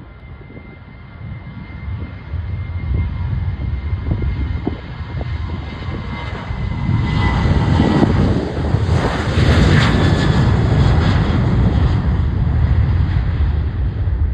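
Boeing 737-800's CFM56 jet engines on departure: a steady fan whine and rumble that grows louder as the airliner passes, loudest about nine to ten seconds in with a falling pitch, then settling into a steady low rumble.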